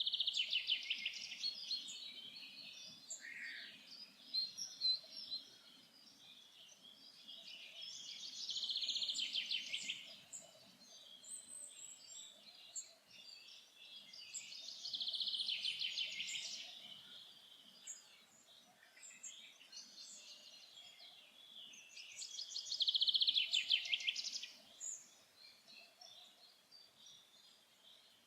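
A songbird in a forest repeats the same fast trilled song of about two seconds, four times, roughly every seven seconds, with fainter chirps from other birds in between.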